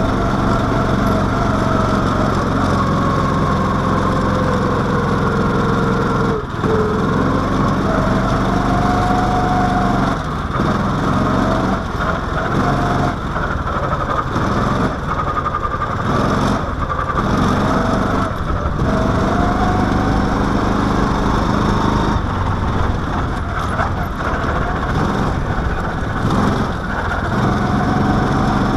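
Mini-baja car's single-cylinder Briggs & Stratton engine running under load on the move, its pitch rising and falling with the throttle, dropping briefly a few times as the throttle is lifted.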